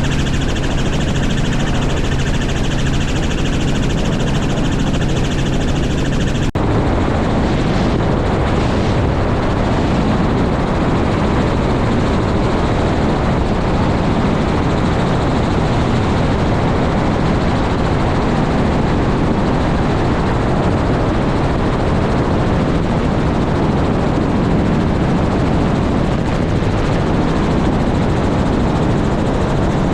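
Helicopter running steadily and loudly. About six and a half seconds in, a sudden cut changes it from a steady sound with low tones to a denser, steady rushing noise.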